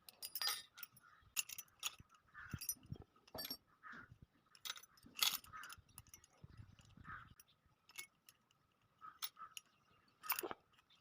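Cut steel spokes being pulled out of a motorcycle's rear wheel hub: a string of light, irregular metal clicks and clinks, with a faint steady high hum underneath.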